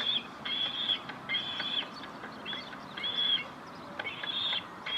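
Seagull chick calling from somewhere above: a run of short, high-pitched calls, about seven in five seconds, each under half a second. It sounds like a chick in some distress.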